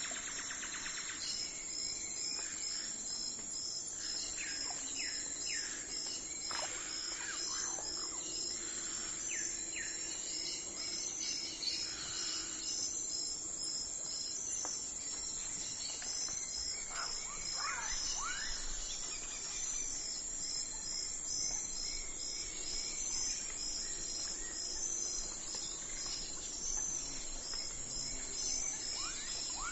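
Crickets chirping in a steady pulsed train, with birds calling now and then in short sweeping notes.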